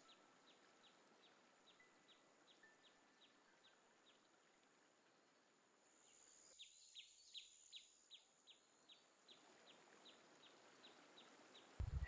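Near silence with a faint bird call: short high notes, each falling in pitch, repeated about three times a second, broken by a pause of a few seconds in the middle.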